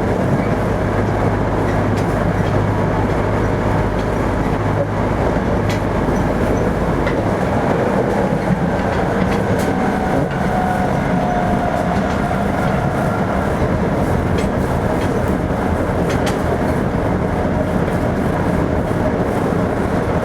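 Toei 5300 series electric train heard from inside the car while running: a steady rumble with wheels clicking over rail joints. A low hum from under the car fades out about six seconds in.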